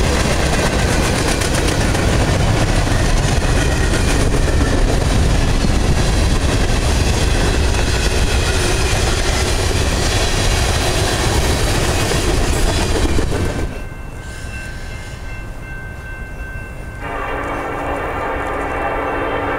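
Freight cars of a passing train rolling by, with loud wheel-on-rail rumble and clatter, cutting off suddenly about two-thirds in. Then a diesel locomotive horn sounds a steady chord, growing louder and fuller near the end as the train approaches.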